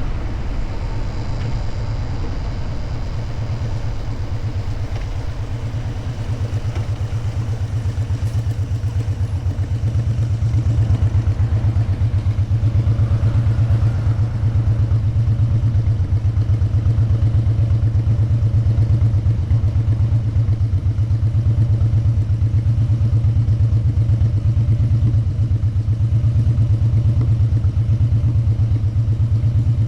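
Motorcycle engine running under way with a steady low pulsing note; it grows louder about a fifth of the way in and again about a third of the way in, then holds steady.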